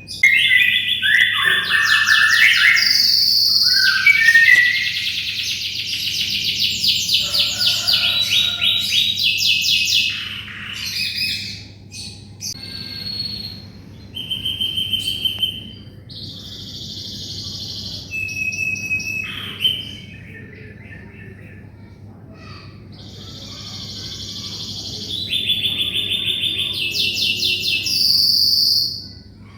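Domestic canary singing vigorously: a long song of fast trills and rolling runs of rapidly repeated notes. It breaks into shorter phrases with gaps in the middle, then picks up into dense trilling again toward the end.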